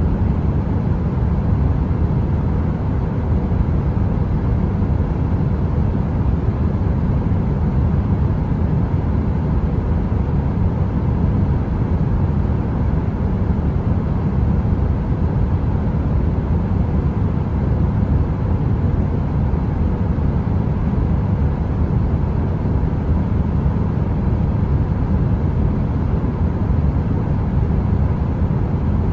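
Steady deep brown noise: an even, low rumbling hiss heaviest in the bass, with a faint steady hum, like a heater running and with no fire crackle.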